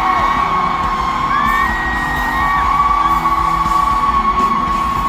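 Concert hall audience screaming on cue: many fans holding long, high-pitched screams that overlap, over a dense crowd roar.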